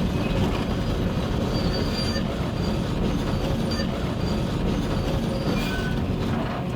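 Excavator's diesel engine running steadily under load as the tracked machine climbs a stone pile, with short high-pitched squeals from the steel tracks every second or so.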